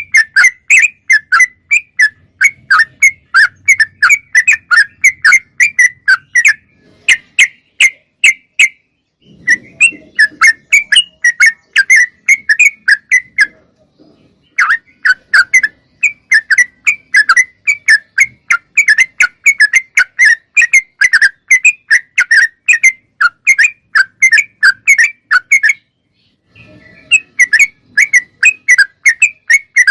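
Yellow-vented bulbul (trucukan) singing a fast run of loud, clear chirping notes, about three or four a second, in long bouts broken by a few short pauses.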